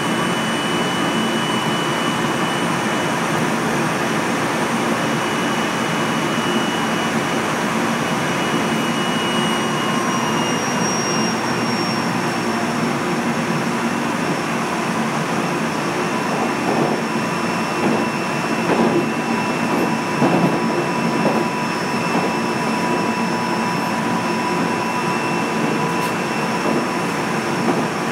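Running sound of a JR Central 373 series electric multiple unit, heard from inside the train: steady rushing running noise with faint steady whines over it. A short cluster of louder knocks comes a little past halfway.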